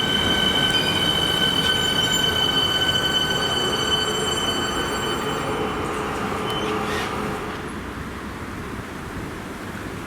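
Suburban electric train rolling past with its wheels squealing in steady high-pitched tones over the rumble of the running train. The squeal fades out about six to seven seconds in, and the train noise dies down after it.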